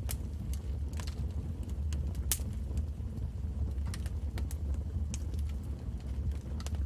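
Wood fire crackling, with irregular sharp pops and snaps over a steady low rumble of the flames; one pop about two seconds in is the loudest.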